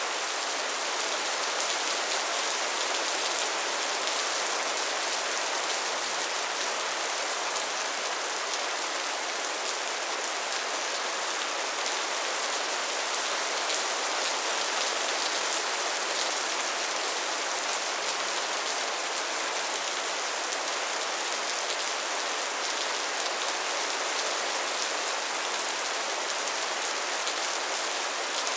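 Soft, steady rain: an even hiss with a fine patter of many small drops, unchanging throughout.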